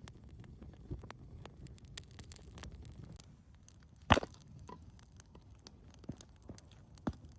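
Irregular light clicks and taps, with one much louder sharp knock about four seconds in.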